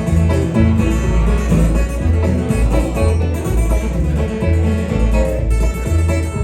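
Live bluegrass band playing an instrumental break: acoustic guitar and banjo picking over a bass line that alternates between notes in a steady rhythm.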